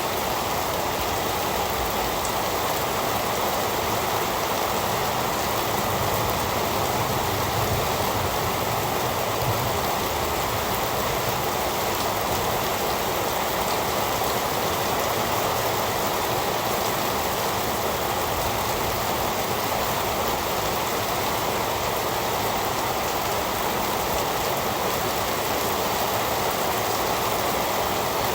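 Heavy rain falling: a steady, even hiss of rain with no breaks or single sharp sounds.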